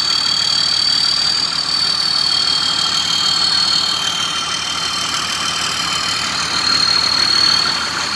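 Large tracked rice combine harvester's diesel engine idling steadily, with a steady high-pitched whine running over the engine note.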